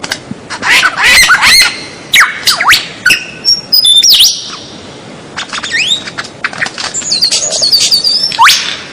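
White-rumped shama (murai batu) singing loudly in full song: a varied run of whistled notes, rising and falling sweeps and sharp chips, with a quick series of repeated notes near the end.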